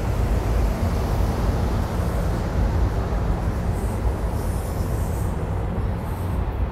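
SEPTA Regional Rail electric commuter train running past the platform, a steady loud rumble.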